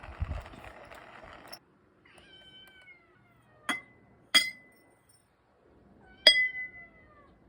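Kitten meowing twice, each meow falling in pitch, with three sharp ringing clinks between and alongside the meows. The first second and a half holds a rushing noise and a dull thump.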